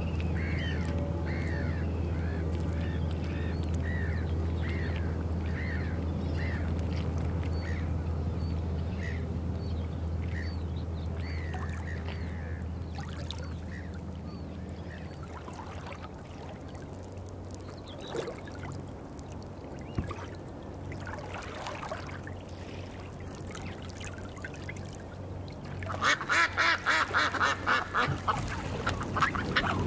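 Birds calling: a short call repeated about once or twice a second over a steady low hum that fades about halfway through, then a loud, fast run of calls, about five a second, near the end.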